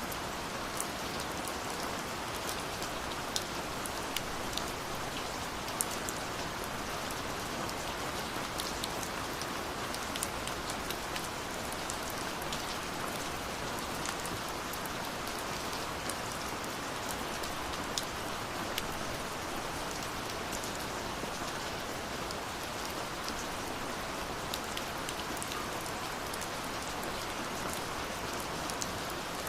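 Steady rush of falling water from a waterfall, with scattered sharp crackles and pops of a wood fire over it.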